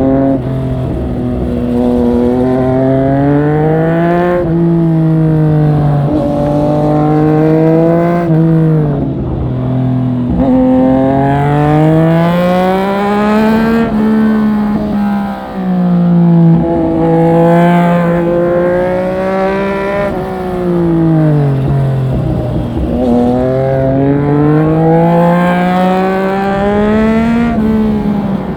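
Triumph Street Triple 765RS inline three-cylinder engine under hard riding, its revs climbing and then dropping sharply again and again as the bike accelerates and backs off through a run of bends.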